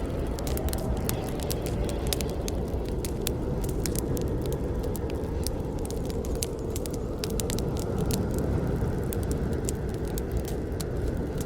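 Wood campfire burning: a steady low rumble of flames with many sharp, irregular crackles and pops.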